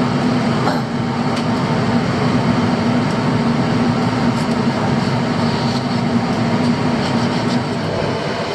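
A fishing boat's engine running steadily, a constant low hum under a dense rushing drone.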